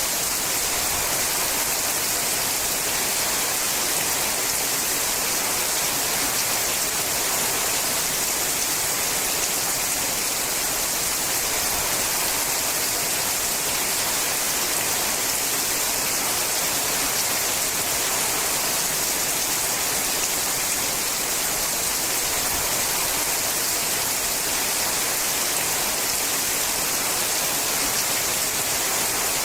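Steady rain falling on a sheet-metal roof, a dense even patter of drops with no let-up.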